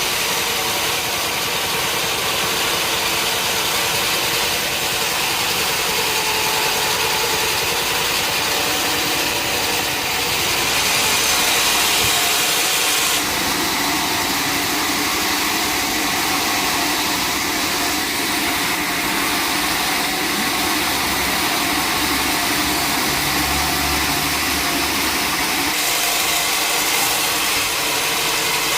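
Sawmill machinery running steadily and loudly, an engine-like drone under a hiss that briefly grows brighter partway through.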